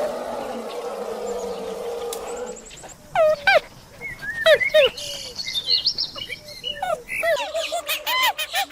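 Birds calling with many short, repeated, hooked chirps that start about three seconds in and grow denser and overlapping near the end, after a steady noisy stretch.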